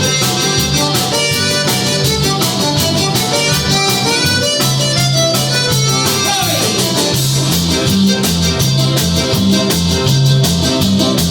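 Live band playing an instrumental passage of a song: guitar over bass and drum kit with a steady beat, and a falling pitch glide about six seconds in.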